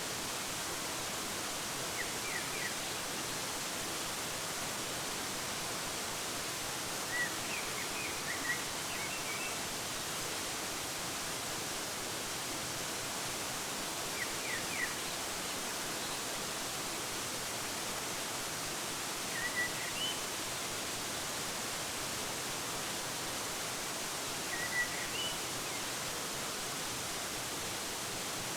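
Waterfall rushing steadily, with short bird chirps in small clusters every few seconds.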